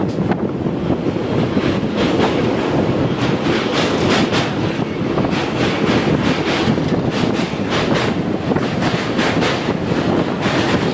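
Passenger train running at speed, heard from on board: a steady rumble of the wheels on the track with rapid, irregular clicking as they pass over rail joints.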